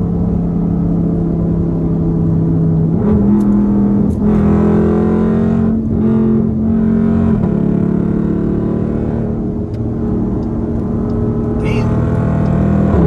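Straight-piped Dodge Durango SRT's HEMI V8 exhaust droning steadily under way, stepping up in pitch about three seconds in and settling a little lower again past the middle.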